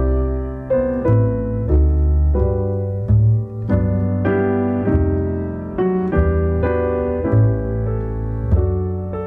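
Piano music: a slow piece with chords and bass notes struck about once a second.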